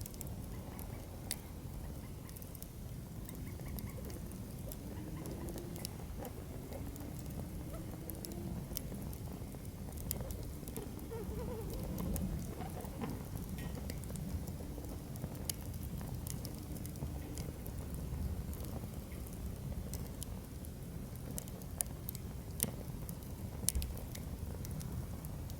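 Firewood burning in a fire-pit stand: irregular sharp crackles and pops over a low, steady rush of the flames.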